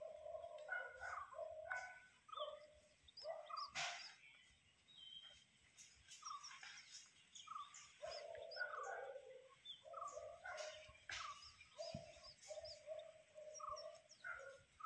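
Faint birds calling and chirping: short repeated mid-pitched notes with small high chirps, and a sharp click about four seconds in.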